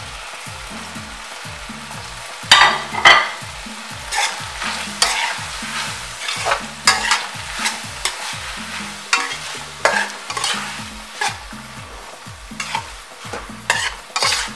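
Salt cod and vegetables sizzling in hot oil in an aluminium caldero. From about two and a half seconds in, a metal spoon scrapes and knocks against the pot over and over as the fish is stirred into the sofrito.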